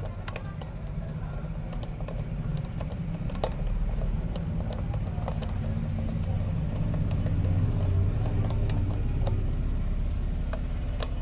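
Scooter engine running steadily, a low hum that swells a little twice, with scattered light clicks over it.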